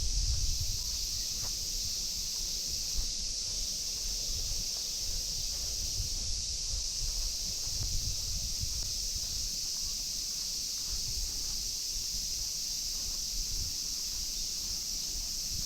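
Chorus of summer cicadas making a steady, high, unbroken drone, with a low, uneven rumble underneath.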